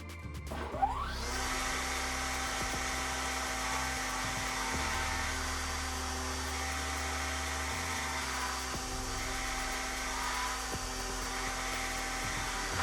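Electric wood router spinning up with a rising whine about half a second in, then running steadily at full speed.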